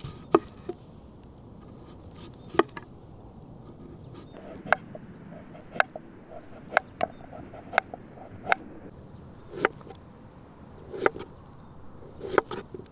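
A series of about a dozen sharp knocks or taps, irregularly spaced about a second apart.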